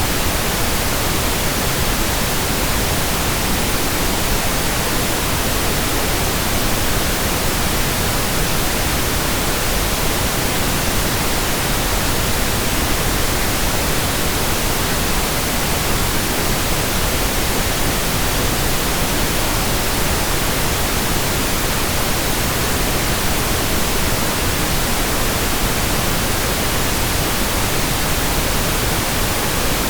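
Steady pink noise: an even, unchanging hiss spread across all pitches, fuller in the low end than white noise.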